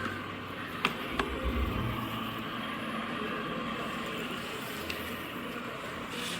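Dreame H12 Pro wet-dry vacuum running with a steady motor and brush-roller whirr, with two sharp clicks and a brief low rumble about a second in.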